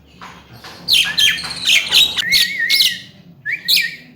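Javan myna calling: a rapid run of harsh squawks mixed with clear whistles, including a wavering whistle, starting about a second in, then one more short call near the end.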